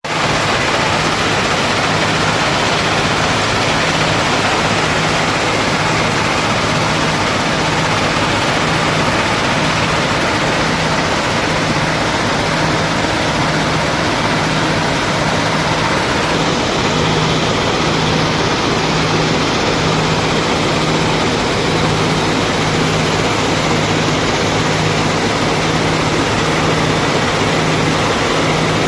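Railway ballast cleaning machine running: loud, steady machinery noise with a low hum that pulses about once a second.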